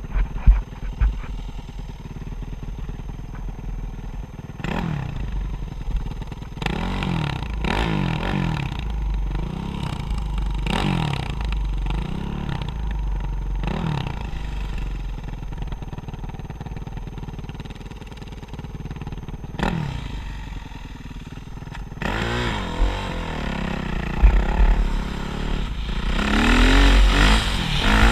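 Motocross dirt bikes riding a track, their engines repeatedly revving up and dropping back as they shift and take corners. The engines grow louder near the end as bikes come closer.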